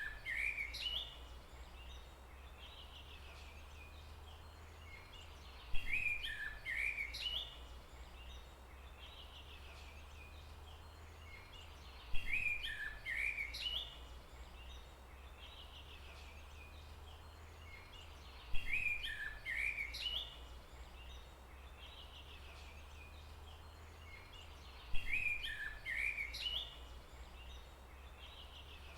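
A songbird singing the same short phrase of chirping notes over and over, about every six seconds, over a steady low background rumble.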